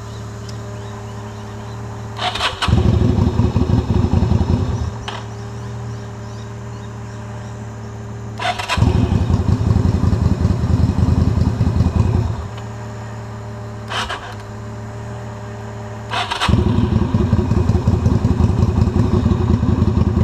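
Yamaha XV250 Virago V-twin cranking on its electric starter three times, a few seconds each, without catching, with a lone click in between, over the steady hum of an idling car engine. The bike is being jump-started from the car because of a flat battery.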